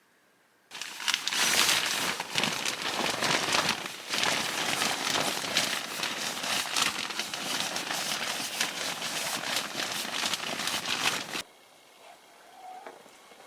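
Dense crinkling and rustling of material being handled, made of many quick crackles, which starts suddenly about a second in and cuts off abruptly near the end.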